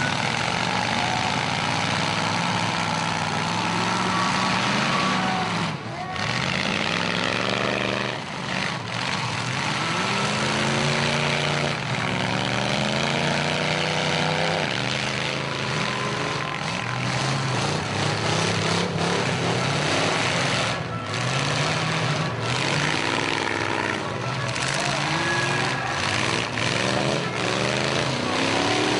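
Many demolition derby car and truck engines running at once, revving up and down over and over, loud and continuous.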